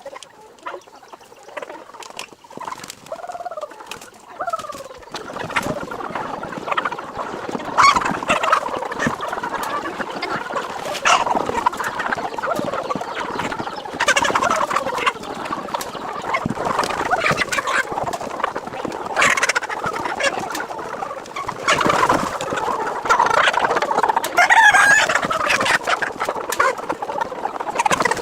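Many chickens clucking and squawking together, with short knocks, the flock being caught and handled for sale by weight. It starts fairly quiet with a few single calls and grows to a dense, loud chorus about five seconds in.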